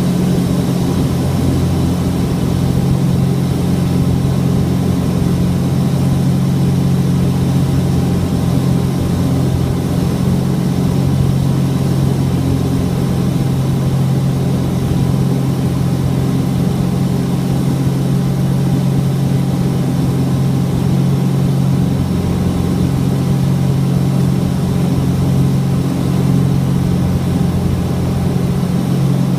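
Cessna 421's twin geared, turbocharged piston engines running steadily, a constant low drone with an even hum and no change in power.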